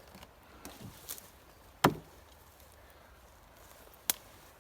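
Two sharp chops of an axe into a log, about two seconds apart, the first the louder, with a few lighter knocks between. The wood is wet and punky.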